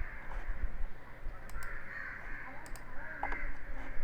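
A bird calling over and over, several short calls of about half a second each, with a few faint clicks between them.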